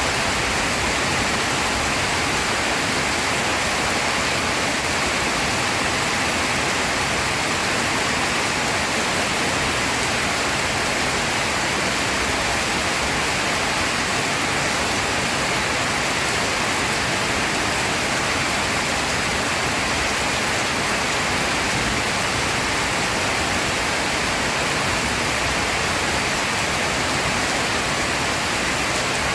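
Heavy rain pouring steadily: a dense, even hiss with no let-up and no thunder.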